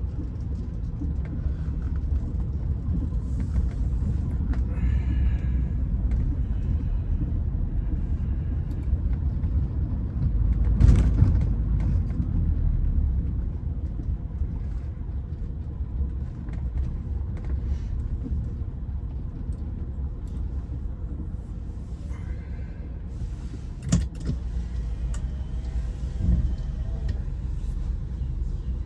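Steady low rumble of a car's engine and road noise, heard from inside the car, swelling briefly about a third of the way in, with a couple of sharp knocks near the end.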